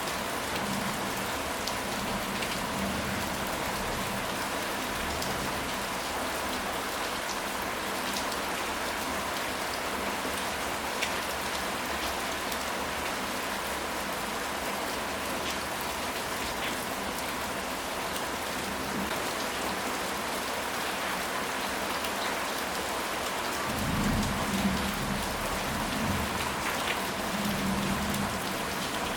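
Steady rain falling on a surface, with scattered individual drops ticking. Near the end, a low rumble swells and fades a few times.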